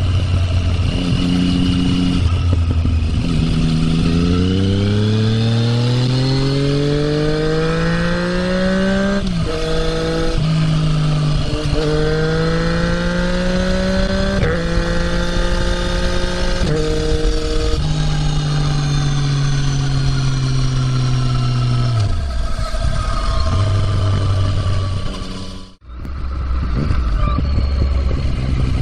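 2020 Yamaha MT-09's three-cylinder engine through an Akrapovič muffler, idling, then pulling away with rising revs broken by several quick upshifts. The revs hold steady for a few seconds, then drop back to idle when the throttle closes. Near the end the sound cuts off abruptly and comes back.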